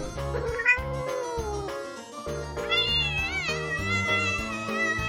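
Domestic cat meowing over background music with a steady beat: a falling meow about half a second in, then a long, wavering meow from about halfway through.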